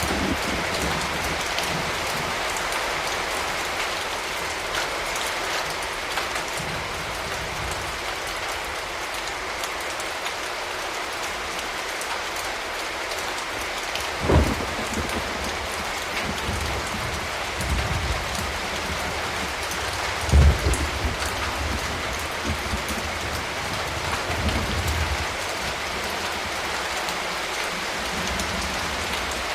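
Steady rain falling and pattering on surfaces. Two short, loud low thuds about 14 and 20 seconds in, with low rumbling between and after them, fit distant thunder.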